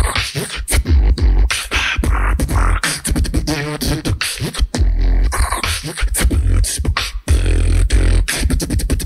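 Solo beatboxing: deep bass kicks and sharp mouth-made snare and hi-hat clicks in a quick rhythm, with a wavering pitched vocal tone about three seconds in.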